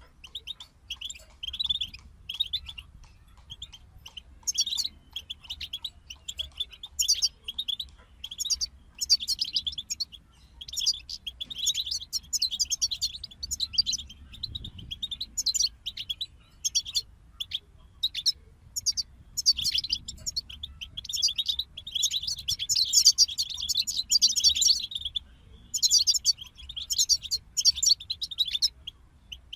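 European goldfinch singing: fast, high twittering phrases broken by short pauses, running almost without a break for a few seconds about three quarters of the way through.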